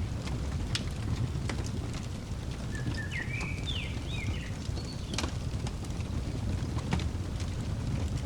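Crackling wood fire with a steady low roar and scattered sharp pops. A bird sings a short phrase of chirping, up-and-down notes about three seconds in.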